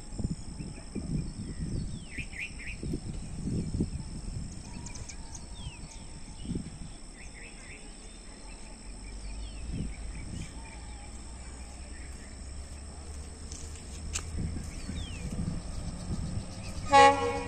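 Approaching express train: a low locomotive rumble building as it draws nearer, then a short blast of the locomotive's horn near the end.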